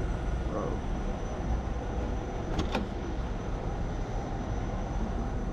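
Steady low vehicle engine rumble, with two short sharp clicks about halfway through.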